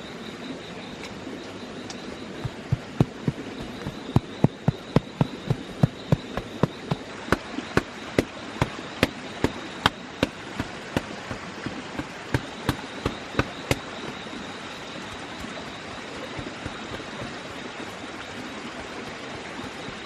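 A heavy bush knife chopping wood in a fast, even run of about thirty strokes, two to three a second, starting a couple of seconds in and stopping well before the end. Under it a steady hiss and a thin, high steady tone.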